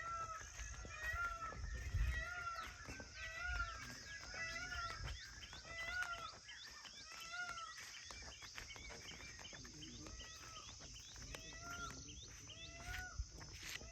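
Birds or fowl calling over and over in short, arched, overlapping notes. A steady high-pitched hiss sits behind them.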